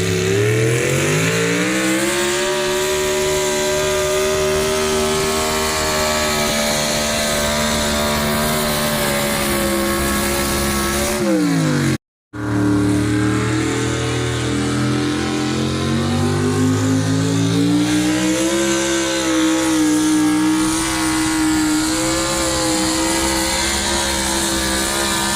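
Pulling vehicle's engine under full load in a truck and tractor pull: it revs up over the first couple of seconds, holds at high, steady revs for about nine seconds, then drops off. After a sudden brief cutout, an engine revs up again and holds high, with a dip and recovery about two-thirds of the way through.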